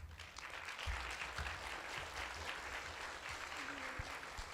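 Audience applauding: a dense spread of many hand claps that starts at once and keeps on evenly.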